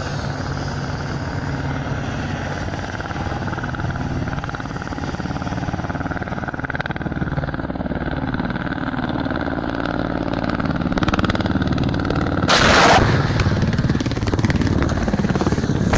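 Military helicopter's rotors and turbines running steadily. About twelve and a half seconds in comes a loud rushing burst lasting about half a second, a rocket salvo being fired, followed by crackling.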